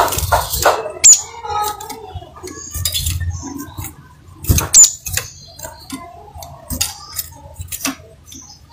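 Crimson sunbird calling: a run of short, sharp, high chirps and ticking notes, with the loudest chirps about a second in and again at about four and a half seconds.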